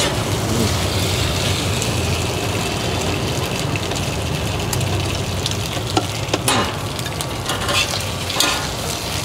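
Steady sizzling of bột chiên (rice-flour cake with egg) frying in oil on the stall's pan, over a low steady hum, with a few short clinks in the second half.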